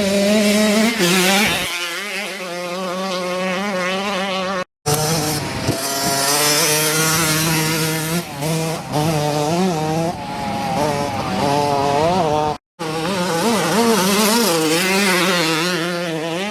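Dirt bike engine revving hard and easing off over and over, its pitch climbing and dropping with throttle and gear changes as the bike is ridden around a race course. The sound cuts off abruptly twice, about 5 and 13 seconds in.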